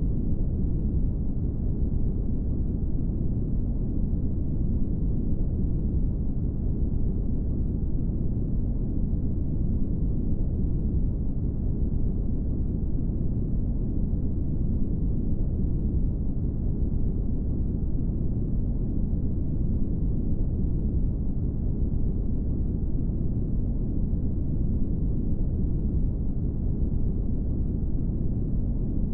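Brown noise: a steady, deep rushing hiss with most of its weight in the low end and almost nothing in the highs, unchanging throughout.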